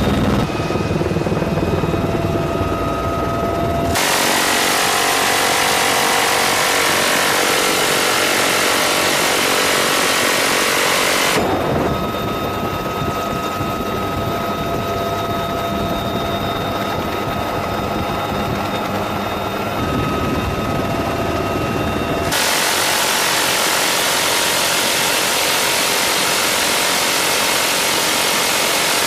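UH-1Y Venom helicopter's engine and rotor noise with a steady whine. The sound changes abruptly between a deeper sound and a brighter, hissier one about 4, 11 and 22 seconds in.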